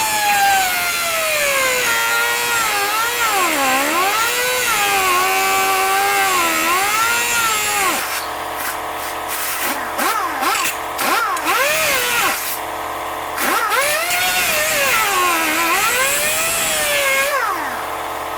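Angle grinder running against a workpiece. Its motor pitch repeatedly sags under load and climbs back as pressure eases, and it runs rougher and lower for a few seconds in the middle.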